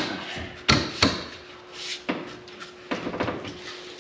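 A few scattered knocks and clunks, the loudest two close together about three-quarters of a second and a second in, as pieces of metal and wood are handled and wedged into place.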